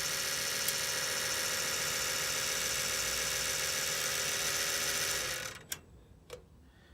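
Desktop computer running with a steady whine, which the owner thinks comes from one of its fans. The sound dies away about five and a half seconds in as the computer is powered off, followed by two short clicks.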